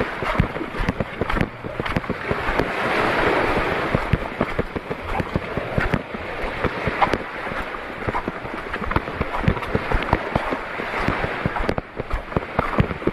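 Wind buffeting the microphone over a rushing, surf-like water noise, with many irregular small knocks and clicks throughout.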